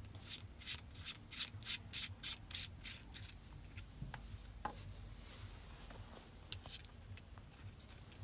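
Rhythmic rasping strokes, about three a second for roughly three seconds, followed by a few scattered light clicks and knocks.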